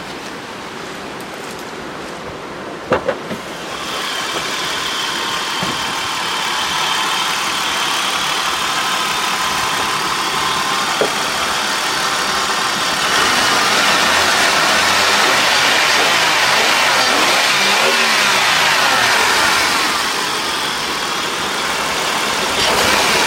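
A car running, with engine and road noise that grows louder about 4 s in and again about 13 s in, as when a car pulls away and gathers speed. A couple of clicks come about 3 s in.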